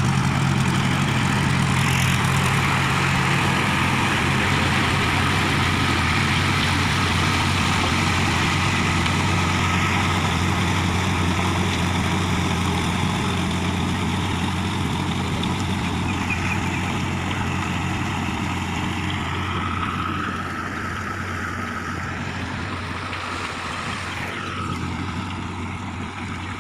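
Mahindra Arjun Ultra-1 555 DI tractor's diesel engine running steadily, getting a little quieter about twenty seconds in.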